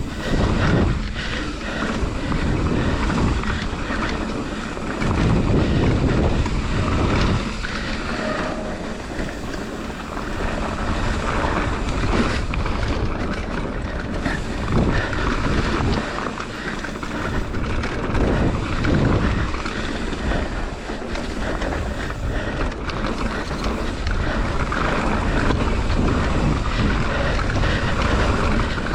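Wind buffeting the microphone over the rumble of a mountain bike's tyres riding down a rough dirt trail at speed, rising and falling unevenly throughout.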